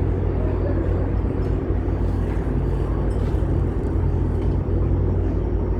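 An engine running steadily with a deep, even drone that does not change.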